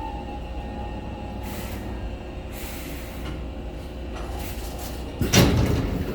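Hankyu 6000 series train standing with a low steady hum and two short hisses, then about five seconds in a carriage's sliding doors open with a sudden loud thump and rush.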